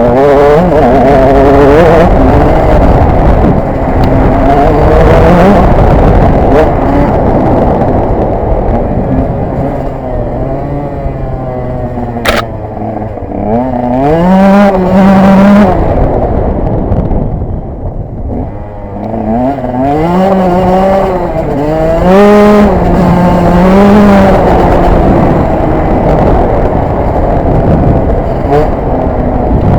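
KTM 125 EXC two-stroke single-cylinder enduro engine being ridden hard off-road, its revs repeatedly climbing and dropping as the throttle is opened and shut, with the biggest rises about halfway through and again a little later.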